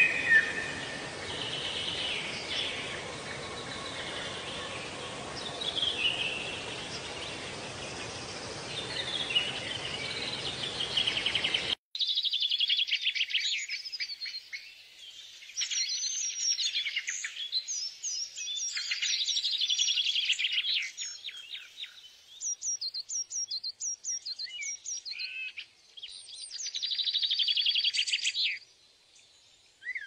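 Small birds singing and chirping over a steady background hiss; about twelve seconds in the sound cuts to a different recording of rapid high trills and chirps in short phrases.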